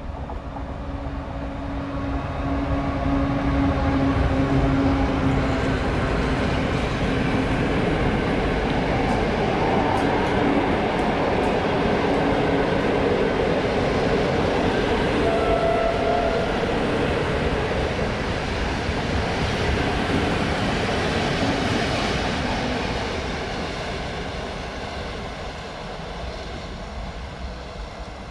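A passenger train passing through the station: the rail noise grows about two seconds in as it approaches, holds while the coaches roll past with the rumble and clatter of wheels on the rails, and fades away near the end.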